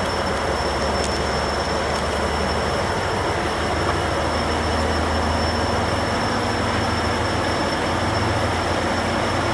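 BNSF double-stack freight train rolling past: a continuous rumble and roar of steel wheels on rail with a low steady hum underneath, and a thin high-pitched wheel squeal held throughout.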